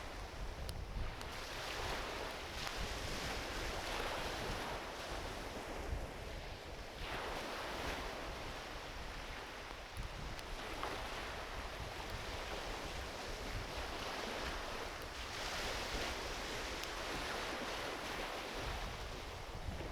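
Small ocean waves washing onto a beach, swelling and fading every few seconds, with a low wind rumble on the microphone. A few faint pops from a driftwood campfire come through now and then.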